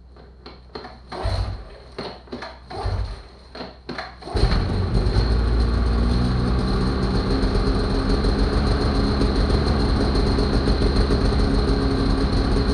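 A few knocks and rustles with two low thumps, then about four seconds in an engine suddenly comes in and runs steadily with a fast pulsing beat: the two-stroke engine of a Polaris 850 SKS snowmobile.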